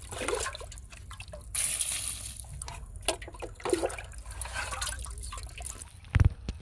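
Water splashing and dripping, with scattered clicks and knocks, and a loud heavy thump near the end.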